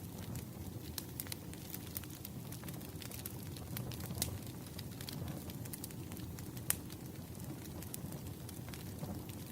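Wood fire crackling, with irregular sharp pops over a low steady rumble of burning logs and one louder pop about two-thirds of the way in.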